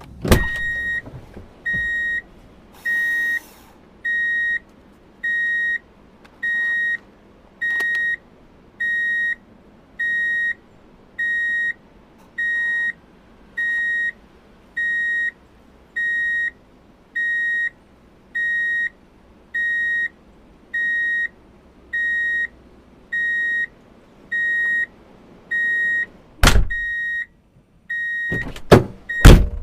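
Electronic beeping: one steady high tone repeating about once a second, like a vehicle's reversing alarm. Sharp knocks sound right at the start and a few times near the end.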